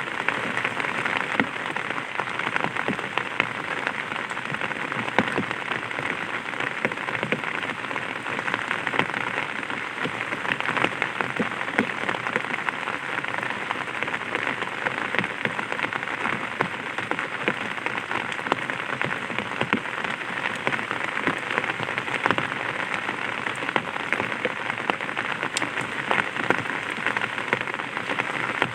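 Light rain pattering steadily on an umbrella, a dense even hiss of many small drop taps.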